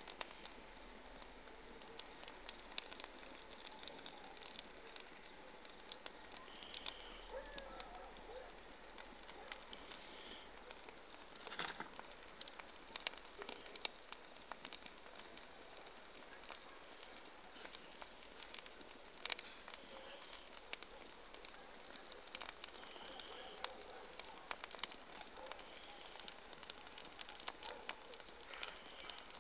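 Wood fire crackling, with many irregular sharp pops of varying loudness over a faint hiss.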